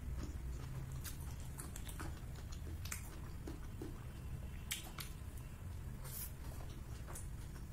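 A person chewing food and smacking their lips at close range, with a few short, sharp mouth clicks scattered through, over a steady low hum.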